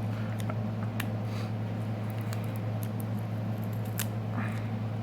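Scattered small clicks and scrapes of a hand tool prying a glued-in smartphone battery loose, over a steady low hum.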